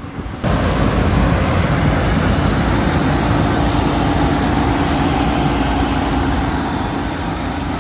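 Combine harvester at work: a loud, steady drone of engine and threshing machinery with a low hum. It starts abruptly about half a second in.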